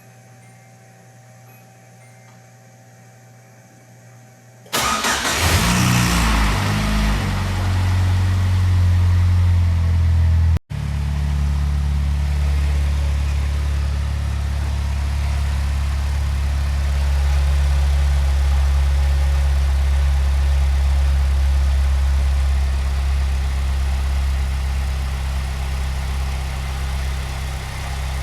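Nissan 240SX engine cranking and catching about five seconds in, then idling steadily, now running on a freshly replaced drive belt.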